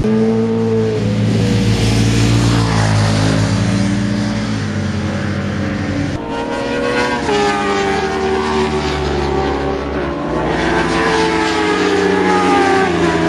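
Motorcycle engine at high revs on a race track, its note climbing and dropping with throttle and gear changes, with a sharp fall about six seconds in and again near the end, over a steady rush of wind noise.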